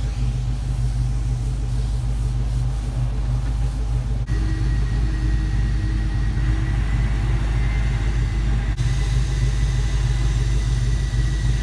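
Vehicle engine idling with a steady low rumble, with two abrupt breaks in the sound.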